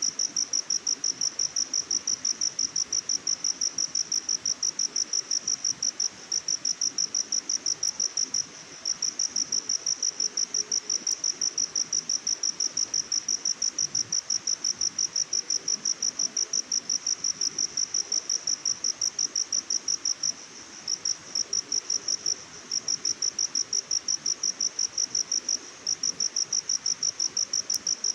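An insect, cricket-like, chirping steadily in quick, evenly spaced pulses about four a second, high-pitched, with a few short pauses. A faint even background hiss lies beneath.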